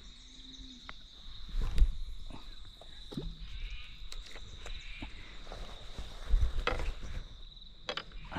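Steady high-pitched insect chirring, with a few dull knocks and rustles of handling or footsteps, the loudest about two seconds in and again around six and a half seconds.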